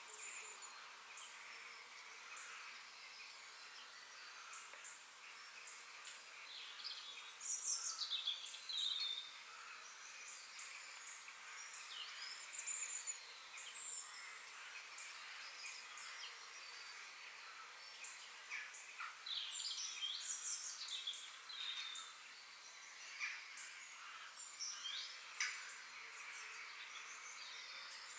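Forest ambience: several birds chirping and whistling over a steady high background hiss. The loudest calls are falling whistles about eight seconds in, and the calls grow busier later on.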